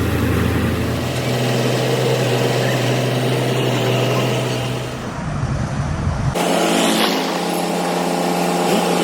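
Machinery running with a steady low hum. About six seconds in it cuts abruptly to a different machine hum with a higher pitch.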